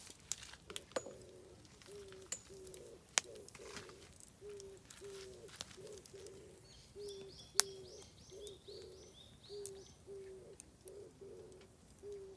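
A dove cooing in a steady run of short, low notes starting about a second in, while a smaller bird sings a quick series of high notes in the middle. Oak firewood crackles in the campfire throughout, with two sharp pops, one about three seconds in and a louder one past the halfway mark.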